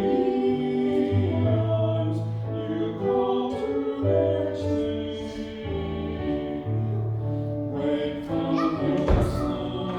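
Hymn sung by several voices with instrumental accompaniment: held notes over steady bass notes. A brief thump about nine seconds in.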